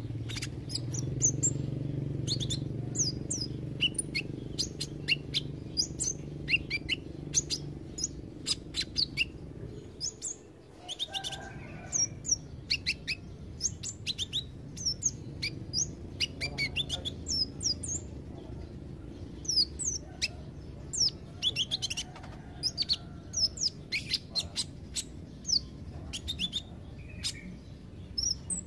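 Kolibri ninja sunbird singing a fast, continuous run of thin, high chirps and short sweeping notes, several a second, over a low steady background hum.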